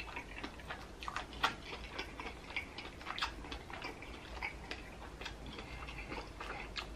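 Close-miked chewing and lip-smacking of a mouthful of sausage: irregular wet clicks and smacks, several a second.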